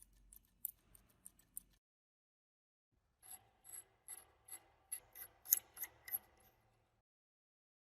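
Short hand-worked scraping strokes on the metal of an old spray gun. A few light clicks come first, then after a pause about a dozen strokes at two to three a second.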